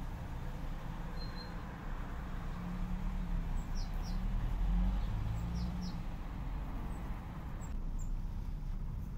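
Small birds giving a few short, faint high chirps, in two quick clusters around the middle, over a steady low outdoor rumble.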